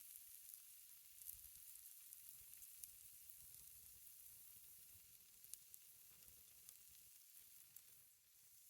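Faint, steady sizzling of pancake batter frying in an oiled cast iron skillet, with a few small crackles.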